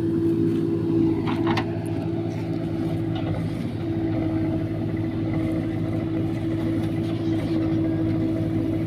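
Heavy diesel engine running steadily at a constant speed, with a couple of short light knocks about a second and a half in.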